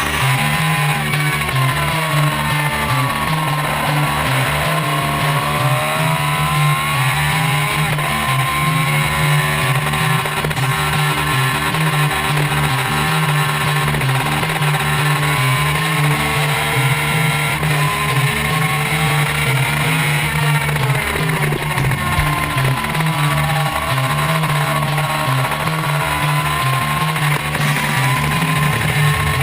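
Racing superbike engine at full throttle, its pitch climbing and dropping back as the bike accelerates and brakes through corners, with rock music mixed over it.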